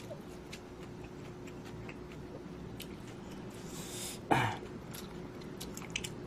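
Mouth and eating sounds of a person eating instant budae-jjigae ramen: scattered faint clicks of chewing and utensils. A short slurp comes about three and a half seconds in, followed at once by a brief vocal sound.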